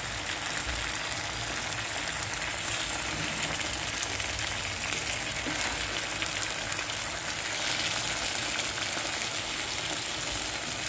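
Spiced yogurt masala frying in oil in a pan with raw chicken pieces in it: a steady sizzling hiss with fine crackles.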